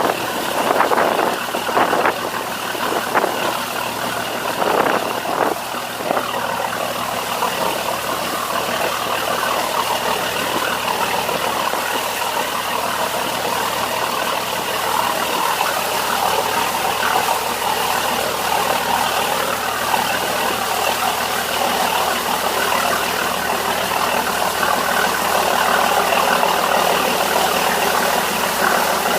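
Fishing boat's engine running steadily while under way, with a steady hum and hiss of water and wind; gusts buffet the microphone during the first few seconds.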